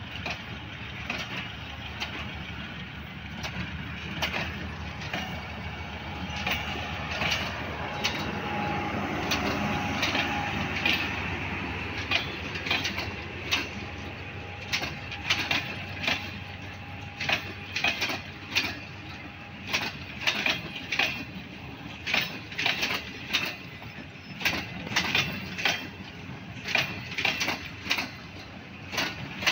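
Passenger coaches rolling past on a departing train: a steady rumble with the clack of steel wheels over rail joints, the clacks growing louder and settling into a regular rhythm in the second half. A faint steady whine is heard for a while in the middle.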